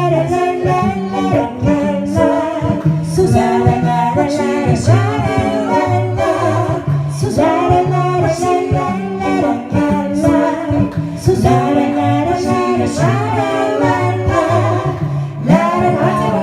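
An a cappella vocal group singing in close harmony over a low sung bass line, with the lead singing 'la la la' syllables a couple of seconds in.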